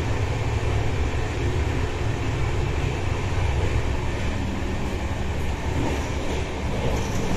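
Deccan Express passenger train running along the track, a steady low rumble of the moving coach.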